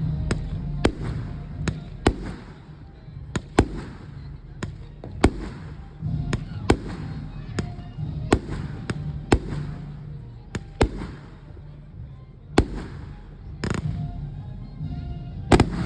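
Aerial fireworks bursting in quick, uneven succession, about twenty sharp bangs, with one longer crackling burst near the end. Music plays steadily underneath.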